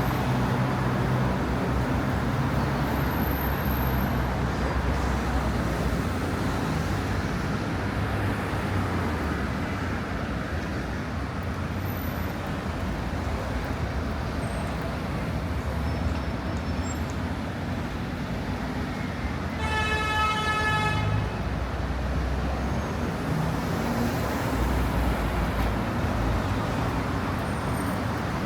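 City street traffic: cars and engines passing steadily, with one vehicle horn sounding for about a second and a half roughly two-thirds of the way through.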